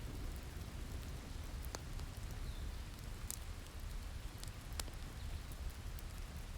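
Steady rain with a low rumble underneath, and a wood fire crackling with a few sharp, scattered pops.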